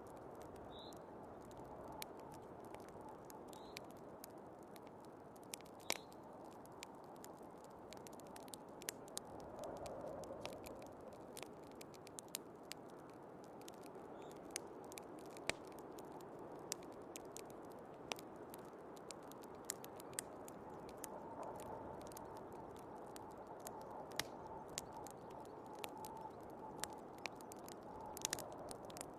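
Wood fire crackling, with irregular sharp pops scattered over a steady low rushing of snowstorm wind. The whole is faint.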